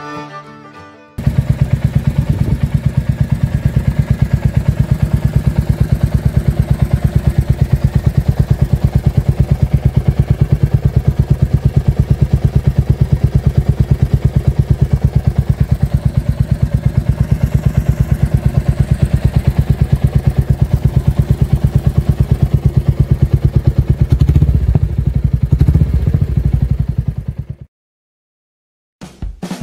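Royal Enfield Meteor 350's single-cylinder engine running through an aftermarket exhaust with a standard-look muffler, a steady run of rapid, even exhaust pulses. The note changes for a few seconds near the end, then cuts off suddenly.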